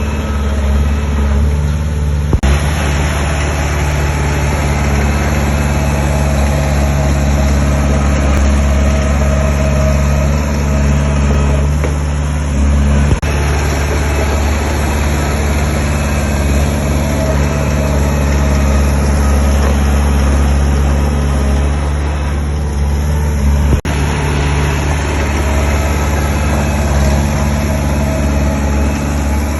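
A heavy diesel engine on earthmoving equipment runs steadily with a deep hum. A few brief sharp knocks come through, about a third, halfway and four-fifths of the way in.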